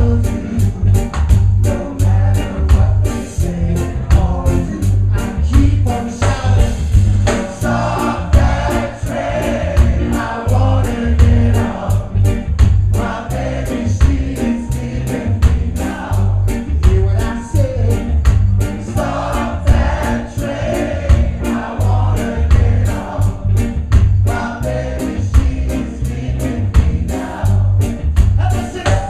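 A live band playing a rocksteady song with sung vocals over it, a heavy bass line and a steady drum beat.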